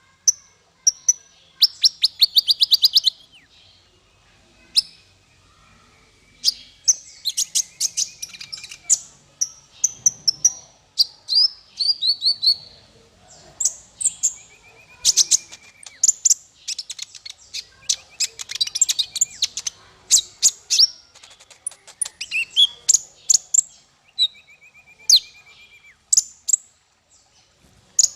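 Small songbird singing a fast, varied song of sharp chirps, whistled slides and rapid trills, delivered in quick phrases with brief pauses and a few buzzy rattles; this is the kind of song played as masteran to train cage birds.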